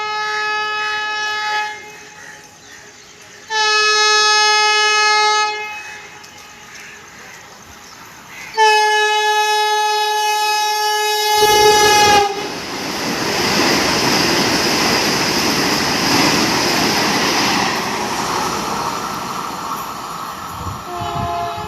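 Indian Railways express train sounding its horn in three blasts, the third one long and dipping slightly in pitch at its end. The train then rushes past at speed, a loud rushing rattle of wheels and carriages that lasts about nine seconds.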